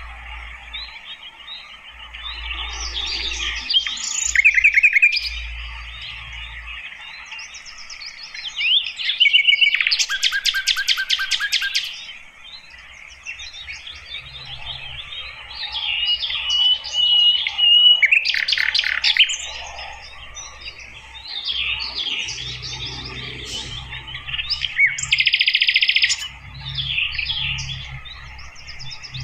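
Wild birds singing, with the sikatan londo flycatcher among them: a busy mix of overlapping chirps, trills and whistles. There is a held clear whistle about halfway through, and a rapid buzzy trill twice, about a third of the way in and near the end.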